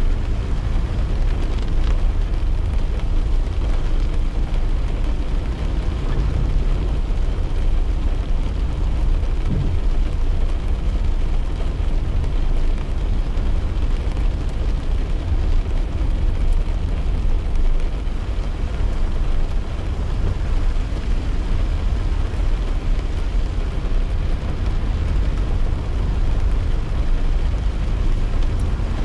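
Car driving on a wet road in rain, heard from inside the cabin: a steady low rumble of tyres and engine, with rain on the car.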